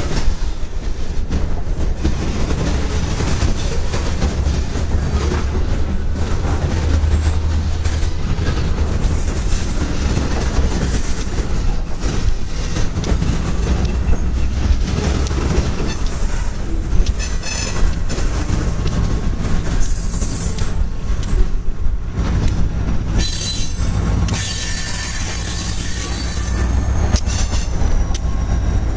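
Freight cars rolling past: steady rumble and clatter of steel wheels on the rails, with high wheel squeals a couple of times past the middle. A diesel locomotive's engine joins in near the end as it comes alongside.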